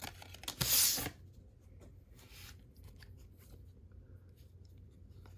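A baseball card pack wrapper torn open with one sharp rip about half a second in, then a softer rip and faint ticks of the cards being handled.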